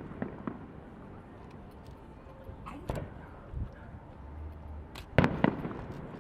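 Fireworks shells bursting at a display: a few faint bangs at the start, a sharper one near the middle, and the loudest, a double bang with echo, about five seconds in.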